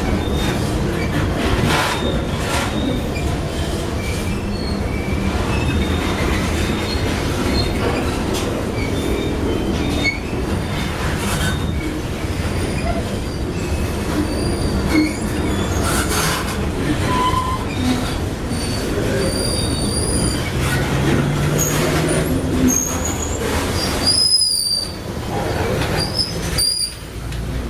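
Freight train rolling through a rail yard: a steady rumble and clatter of the cars on the rails, with short high-pitched wheel squeals that come more often near the end.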